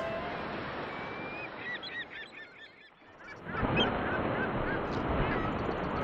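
Runs of short, repeated bird calls over a steady rushing hiss. The sound dips out briefly about three seconds in, then the hiss and calls return.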